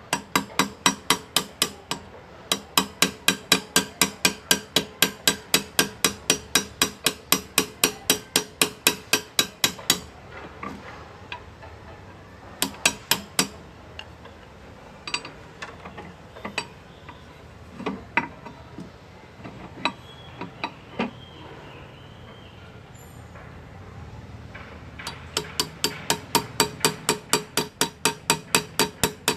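Hand engraving on metal: a chasing hammer tapping a graver, about four ringing taps a second. The taps thin out to scattered single strikes through the middle, then pick up a quick steady rhythm again near the end.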